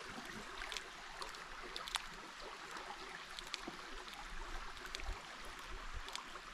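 Shallow creek water running faintly, with scattered small sharp splashes and clicks.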